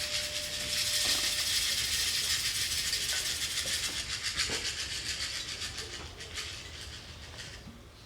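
A steady hiss with a fast, fine rattle in it, slowly fading out; a single ringing tone dies away about a second in.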